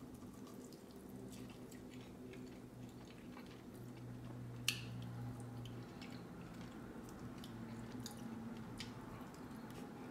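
A person chewing and smacking on a soft, sauced fried chicken wing: faint wet mouth clicks, with one sharper click about halfway through. A low steady hum runs underneath.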